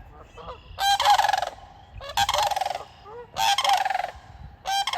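Sandhill cranes giving loud, rolling, rattling bugle calls: four calls about a second apart. The birds are agitated, squaring off against a goose and a swan.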